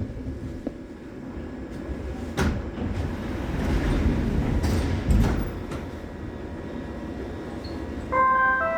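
Subway train standing at a station with its doors open: a steady low rumble of the car with a few knocks, then near the end a bell-like door-closing chime starts, several steady tones at once, the warning that the doors are about to close.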